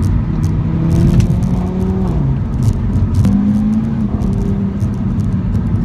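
2015 Audi RS3's turbocharged five-cylinder engine, heard from inside the cabin, pulling hard under acceleration. Its pitch rises, drops at a gearshift about two seconds in, steps up again about a second later, and then holds.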